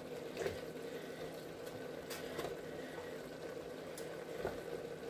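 A knife slicing mushrooms on a cutting board: a few scattered, short taps, over a faint steady hiss and hum.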